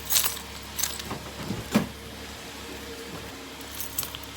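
A few short clicks and rustles, the loudest about two seconds in, from searching for and handling a car key, over a faint steady hum.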